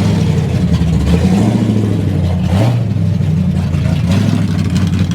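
Car engine running at low speed, its pitch shifting and rising briefly about two and a half seconds in.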